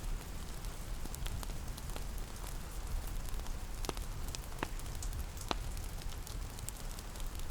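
Steady rain pattering, mixed with a crackling wood fire whose pops come as scattered sharp clicks, over a low steady rumble.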